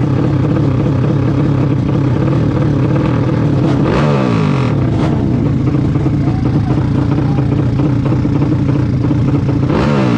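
A vehicle engine running steadily under load, with its revs dropping twice, each time with a short burst of hiss: about four seconds in and near the end.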